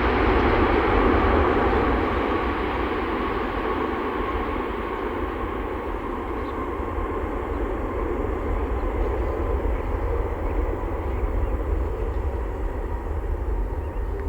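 Jet airliner's engine noise, loudest at the start and slowly fading as the aircraft moves away, over a steady low rumble of wind on the microphone.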